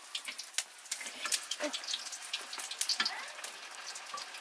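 Sel roti deep-frying in a pan of hot fat: a steady sizzle with many sharp crackles and pops.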